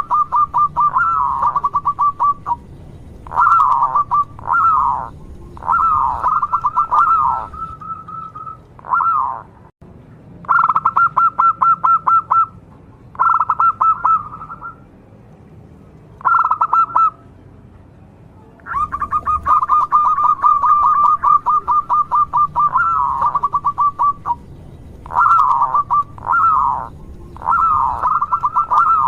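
Zebra dove (perkutut) singing. It gives phrases of rapid staccato cooing notes at one pitch, some ending in falling notes, with short pauses between them and a longer unbroken run about two-thirds of the way through.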